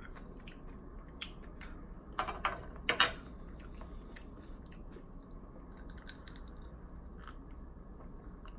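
Close-miked chewing: a man eating with his mouth near the microphone, soft wet clicks and smacks, with a few louder ones about two to three seconds in.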